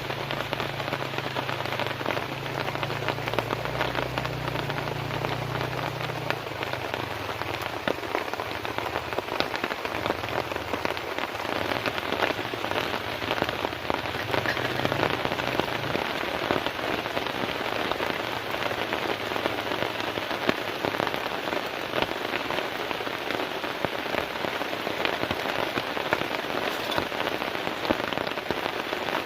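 Heavy rain falling steadily, with many individual drops striking a surface. A faint low rumble underneath dies away in the first part.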